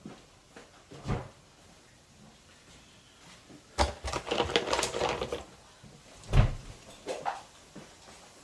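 Handling noises from work at a bench: a knock about a second in, a busy run of clattering and rattling in the middle, then a sharp knock, the loudest sound, a little after six seconds, and a lighter one after it.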